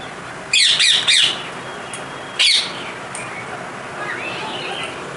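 Parrots squawking: three loud, harsh squawks in quick succession, another about a second later, then softer chattering calls.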